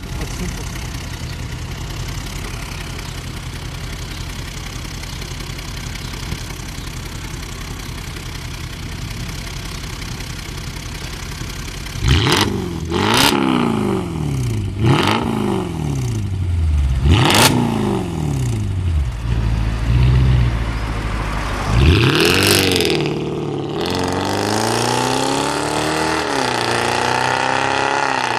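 Mercedes S500 with an S63 AMG exhaust idling steadily, then revved in a run of quick blips from about twelve seconds in, the pitch rising and falling back each time. Near the end it holds a higher, wavering engine note.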